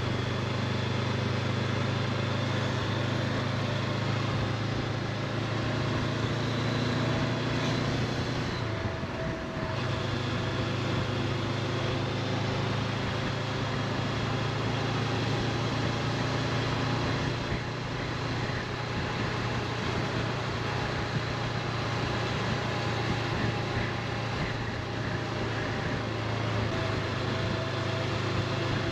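Honda CB500X parallel-twin engine running steadily at cruising speed, with wind rushing over the microphone; the engine note briefly dips about nine seconds in.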